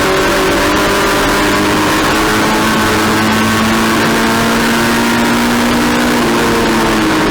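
Race car engine running at high, fairly steady revs, its pitch drifting slightly and shifting about six seconds in.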